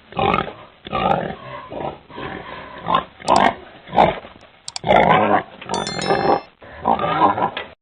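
Pig grunting and squealing in a run of short, rough calls, about one a second. Just before six seconds a brief high ringing tone sounds over them.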